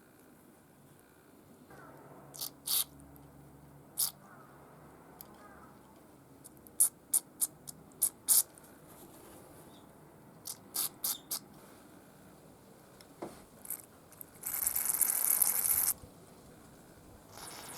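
Scattered sharp clicks and taps of small metal parts and hand tools being handled during workbench disassembly of a brush cutter, including a quick run of five or so in the middle. Near the end, a hiss lasting about a second and a half.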